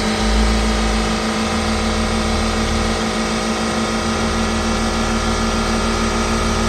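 2011 GMC Terrain's 2.4 L four-cylinder engine running steadily during a run test, with no change in speed.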